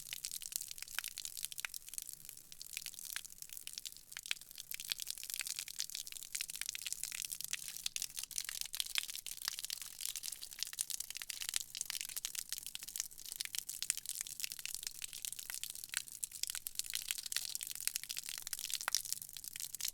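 Steady, dense crackling: a constant high hiss thick with small sharp pops and crackles, with no pause or change.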